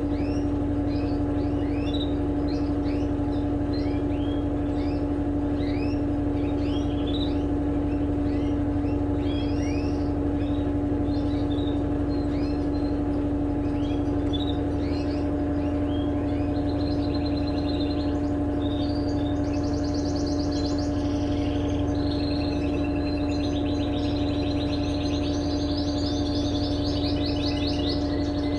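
Electrolux LTE12 washing machine spinning: a steady motor hum with a constant whine. Birds chirp over it, many short rising chirps, with buzzier trills joining in the second half.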